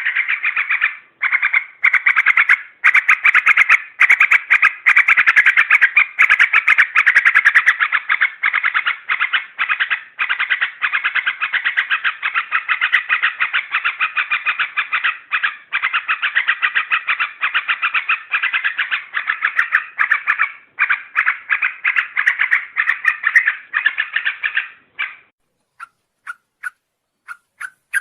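Yellow-vented bulbul (trucukan) lure call: a fast, continuous stream of chattering bird notes with brief pauses, stopping near the end.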